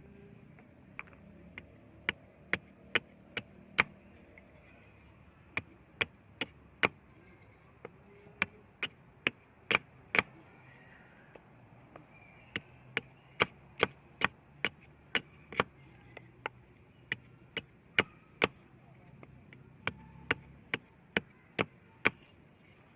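Repeated sharp chopping strikes of a blade, about two a second in runs with short pauses.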